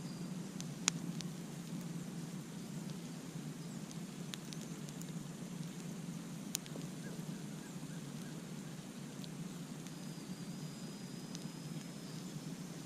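Campfire burning with a steady low rumble and scattered sharp crackles and pops, the loudest about a second in and another about halfway through. A faint thin high note sounds near the end.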